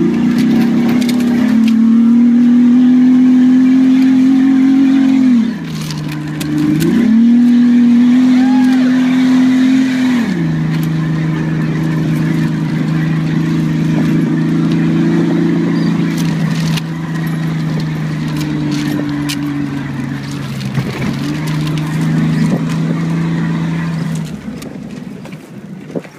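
Off-road 4x4's engine running under way, heard from inside the cab. Its pitch dips about five seconds in, climbs back a second and a half later, then settles to a lower steady drone about ten seconds in, with small rattles and knocks over it.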